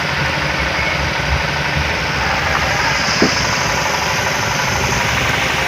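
Steady hiss of rain with an uneven low rumble, and a single short knock about three seconds in.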